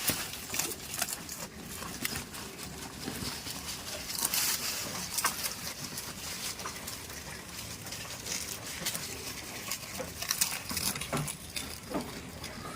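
Goats rustling and shuffling, with many scattered short clicks and crackles over a steady hiss.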